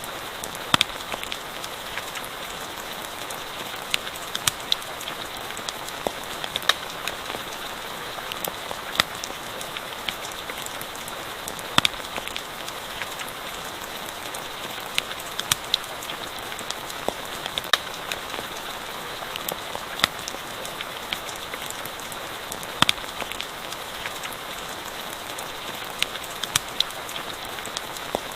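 Steady rain with irregular sharp pops and crackles from a campfire scattered through it.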